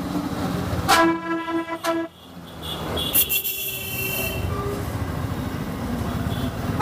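A vehicle horn honks once for about a second, about a second in, over steady engine and road noise. A thinner, higher horn sounds about three seconds in, and another short honk comes at the end.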